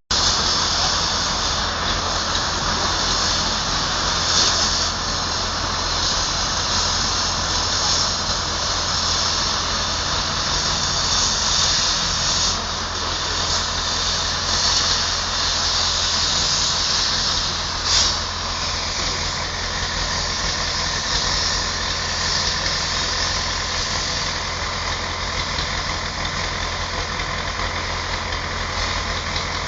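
A heavy vehicle's engine running steadily under a continuous hiss of rain, with a single sharp knock a little past the halfway point.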